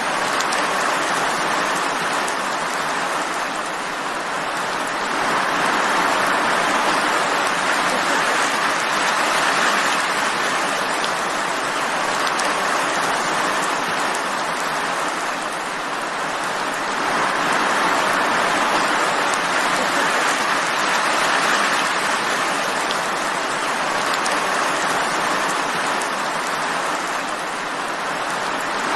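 Steady, heavy rainfall, a dense hiss of drops that grows heavier and eases off in slow waves about every ten seconds.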